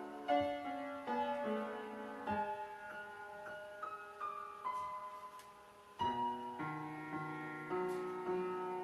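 Mid-1950s Everett piano playing a slow classical-style passage, single notes and chords struck and left to ring, with notes dying away before new chords come in about six seconds in. The piano is out of tune; the owner says it needs tuning.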